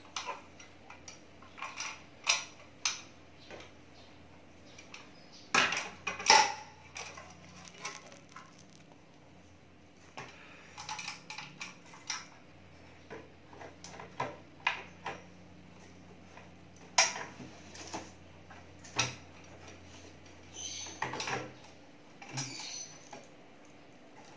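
Irregular clicks, knocks and clatter of hard plastic parts being handled, as the curved monitor and its stand are put together and turned over.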